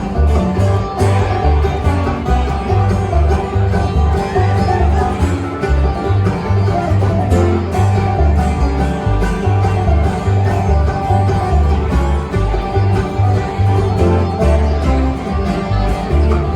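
Instrumental bluegrass music: banjo and guitar picking over a bass line that alternates between notes at a steady pulse.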